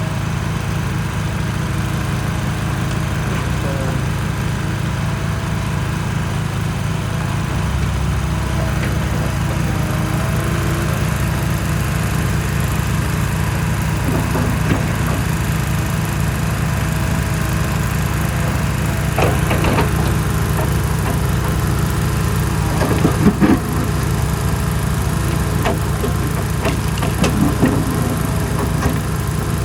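Excavator's diesel engine running steadily, with a few sharp knocks or cracks in the second half, the loudest about two-thirds of the way through.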